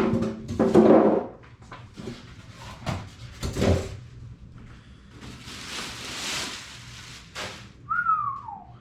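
Cardboard box and plastic packaging of a PC case being handled: knocks and bumps in the first few seconds, a stretch of rustling about halfway, and a short squeak falling in pitch near the end.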